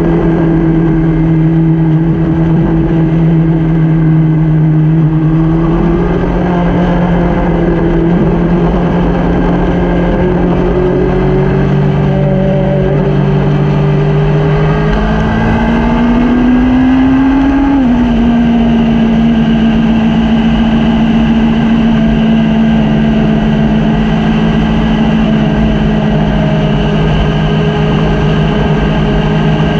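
Motorcycle engine running at steady speed over a low rumbling haze. Its note shifts about six seconds in, climbs as it speeds up between about 15 and 18 seconds in, then holds steady.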